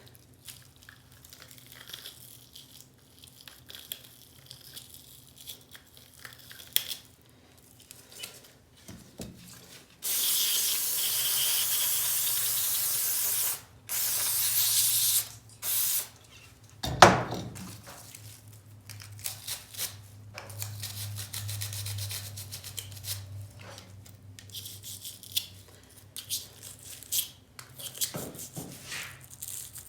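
Brushes scrubbing and small parts clicking as a stripped-down SATA primer spray gun is cleaned. About ten seconds in come three bursts of loud hissing spray, the first lasting about three and a half seconds, and then a single sharp knock about seventeen seconds in.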